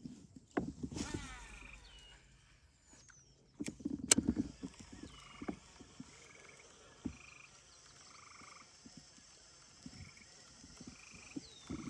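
Frogs calling at the lake edge, short trills repeated every second or so, with a few sharp knocks from the kayak or tackle, the loudest about four seconds in.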